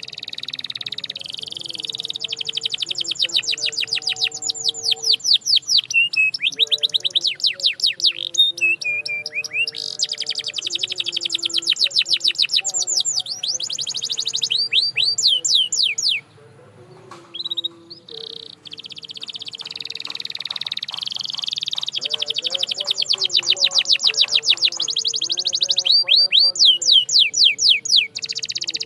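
Canary singing: long rolling trills, each a fast run of repeated sweeping notes, with a short break about halfway through.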